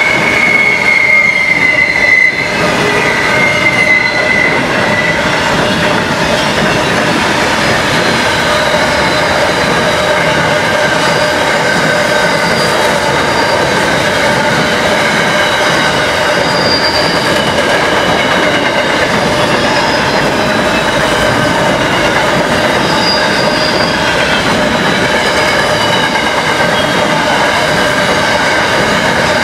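Freight train wagons rolling past, steel wheels on the rails making a continuous loud rumble with several steady high-pitched squeals over it, one squeal strongest in the first few seconds.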